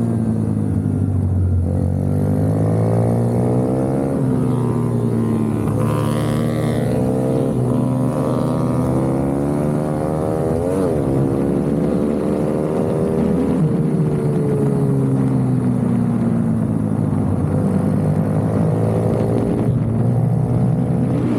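Racing minibike's small engine, heard close from the bike itself, revving up and dropping back again and again as it accelerates out of corners and shuts off for the next.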